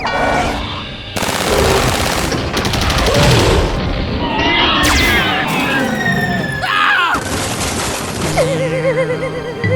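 Animated battle sound effects, rapid gunfire and blasts, layered over background music, with a wavering electronic tone coming in near the end.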